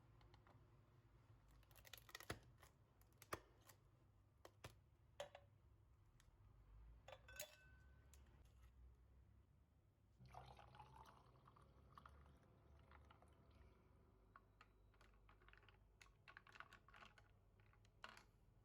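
Faint kitchen handling sounds: scattered light taps and clicks of utensils and dishware, growing into a denser run of small clatters about ten seconds in.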